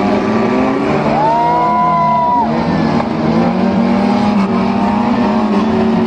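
Several car engines running and revving at once during a demolition derby. About a second in, a high squeal rises and holds for over a second before dropping away.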